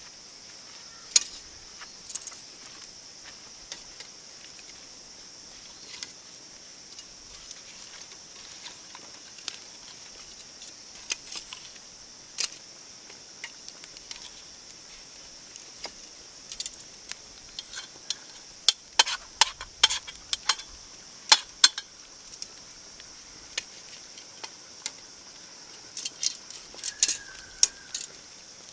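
Scattered sharp clicks and light clinks over a steady high-pitched hiss, the clicks coming thickest past the middle and again near the end.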